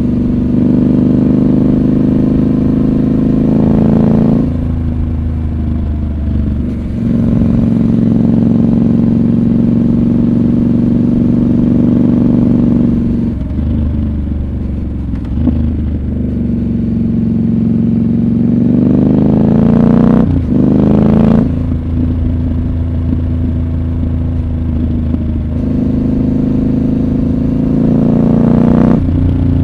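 Triumph Scrambler 1200 XC's 1200 cc parallel-twin engine running under way. Its pitch climbs and falls several times, with sudden drops as the revs come down.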